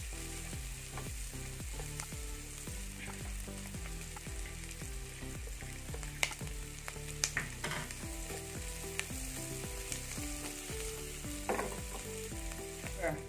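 Onion, garlic, chili and dried shrimp sizzling steadily in hot oil in a non-stick frying pan as a plastic spatula stirs and scrapes them, with a few sharp clicks between about six and seven and a half seconds in.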